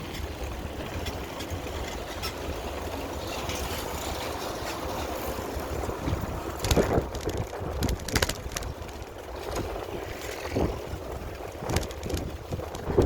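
Wind rushing over the microphone while riding a bicycle, a steady low rumble, with a handful of sharp knocks and rattles in the second half.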